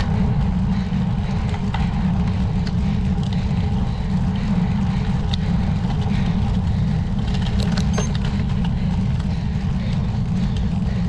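Steady wind and road rumble on a bicycle-mounted action camera's microphone while riding, heavy in the low end, with a few faint ticks.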